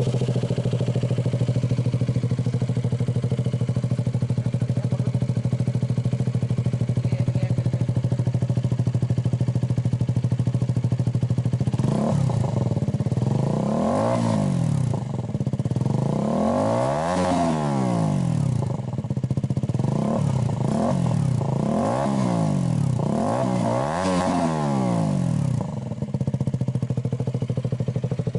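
KTM Duke 200's single-cylinder engine idling steadily through a custom glass-wool-packed, wrapped underbelly exhaust. Partway through it is revved in a series of short throttle blips, the pitch rising and falling each time, and it settles back to idle near the end.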